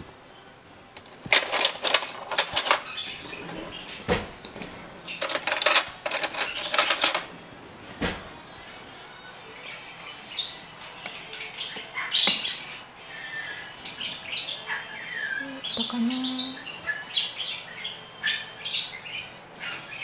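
Small birds chirping: short, high calls, some sliding down in pitch, through the second half. Before that come two bursts of rapid rattling clicks, one about a second in and one about five seconds in.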